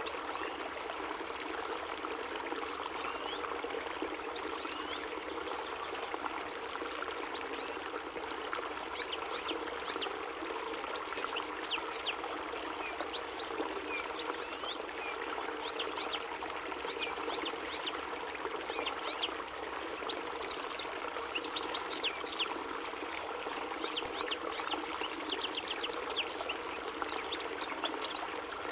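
European goldfinch (chardonneret) song: quick twittering runs of short, high chirps, coming in bursts that grow denser in the second half. A steady sound like running water plays underneath.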